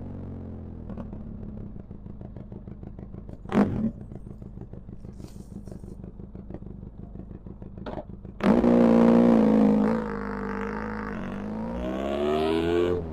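Benelli TRK 502 X's parallel-twin engine through an Arrow exhaust with the dB killer removed. It idles with a short blip about three and a half seconds in, revs hard about two-thirds of the way through, drops back, then climbs in pitch again near the end.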